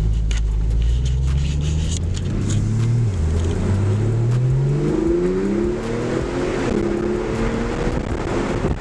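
Porsche 911 Turbo S twin-turbo flat-six engine accelerating hard: the engine note climbs, drops sharply about three seconds in as it shifts up, then climbs again.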